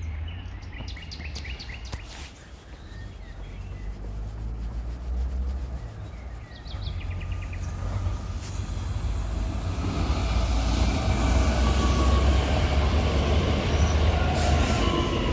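Red DB Regio electric multiple unit approaching and passing on the adjacent track: a low rumble and the rush of wheels on rail that build up and are loudest in the last few seconds.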